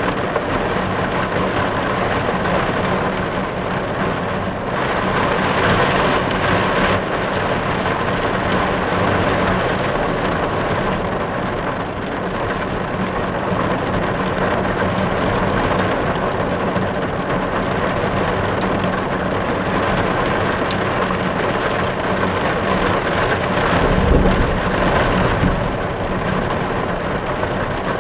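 Rain drumming steadily on a car's roof and windows, heard from inside the car. A brief low rumble swells about three-quarters of the way through.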